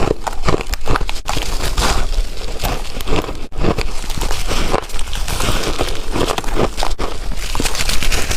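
Close-miked biting and crunching of chunky ice: a dense, unbroken run of sharp cracks and crackles.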